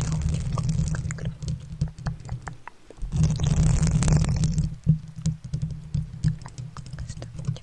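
Close-miked ASMR trigger sounds: low crackly rubbing and scratching right at the microphone, scattered with many small sharp clicks and taps, with a louder rustling stretch about three to four seconds in.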